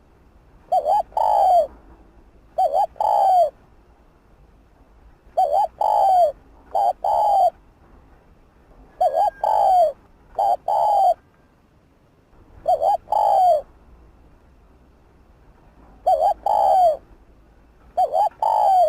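Spotted dove cooing: short low phrases of two or three rounded notes, repeated every two to three seconds.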